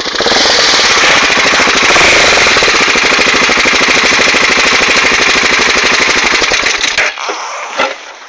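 BMW F650GS motorcycle engine through a Scorpion aftermarket exhaust, running loud and close with a rapid pulsing beat, then dropping away abruptly about seven seconds in.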